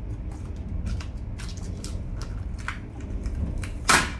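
Painter's tape being peeled back and a hot-glued pine block pried off a vinyl plank floor: scattered small crackles and clicks, then one loud sharp crack near the end.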